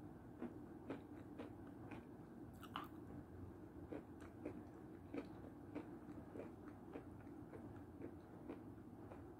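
Close-up eating sounds of someone chewing a spoonful of milk soup: faint chewing with small irregular clicks, roughly one or two a second, over a low steady hum.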